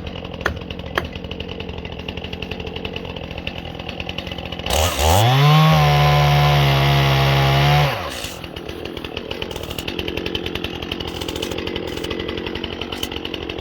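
Two-stroke chainsaw idling, revved to full throttle about a third of the way in. The pitch climbs fast and holds high and loud for about three seconds, then drops back to idle.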